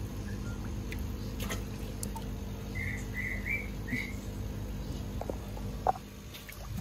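A bird chirping four short times in quick succession about three seconds in, over a low steady hum, with a few faint clicks and splashes of water.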